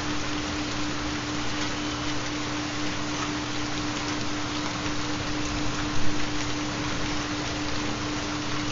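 Steady recorded rain, with a constant low steady tone beneath it from a theta binaural-beat track. There is a brief louder spatter about six seconds in.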